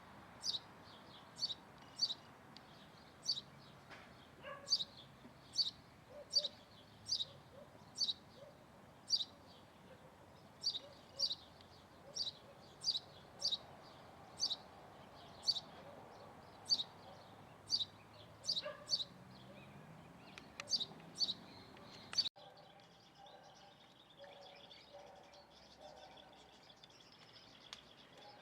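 A small bird chirping: short, sharp, high chirps repeated about once or twice a second. About 22 seconds in, the sound cuts to fainter, softer bird calls.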